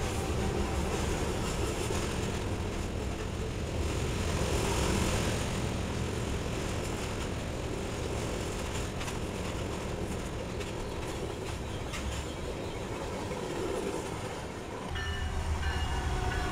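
Freight train rolling past: a steady rumble and clatter of steel wheels on the rails from a string of flatcars loaded with rail. About fifteen seconds in it changes abruptly to diesel locomotives passing close, a heavier low engine rumble with steady tones.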